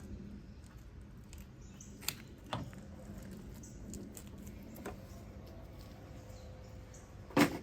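Light handling noise from hands-on work: a few scattered soft clicks and taps, with one sharper click near the end.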